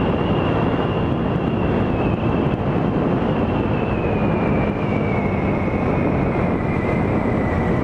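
Honda Grom's 125 cc single-cylinder engine running on the move, mixed with wind and road noise. A high whine drifts slowly down in pitch.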